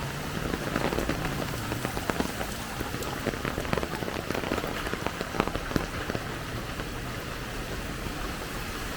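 Heavy tropical downpour: a steady rush of rain with dense, sharp drop impacts pattering close by.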